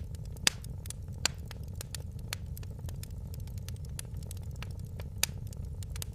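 Wood fire crackling in a fireplace: a steady low rumble of flame under frequent sharp snaps and pops, with louder pops about half a second in, at about a second and a quarter, and near the end.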